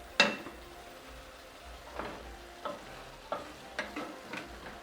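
Beef strips, onions and a thickening sauce sizzling in a pan while being stirred, with a sharp knock of the utensil just after the start and a few light clicks after it.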